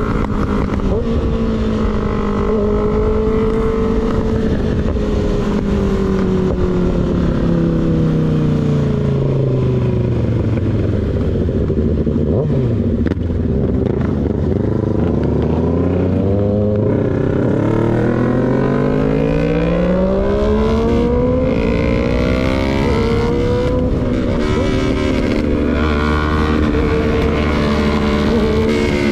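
Sport motorcycle with an unbaffled slip-on exhaust, heard on board while riding. The engine note falls slowly for about fourteen seconds as the bike slows, then climbs again through a few gear changes and holds steady near the end.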